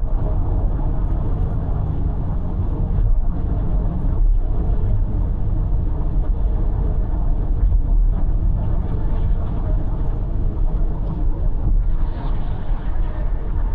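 Steady road and engine rumble of a car cruising on an expressway, heavy in the low end with an even tyre hiss above it.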